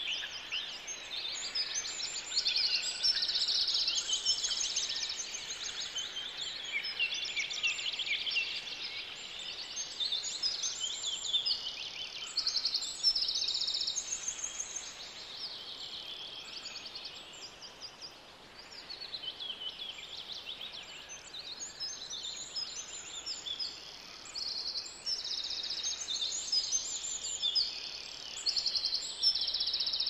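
Several songbirds singing at once: a dense, overlapping chorus of high chirps and trills that thins briefly a little past halfway.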